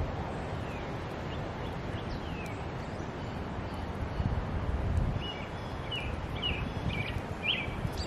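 Outdoor backyard ambience: small wild birds giving short chirps and call notes over a low steady rumble. A few falling chirps come about two seconds in, and a quicker run of short, clipped calls comes between about five and eight seconds in.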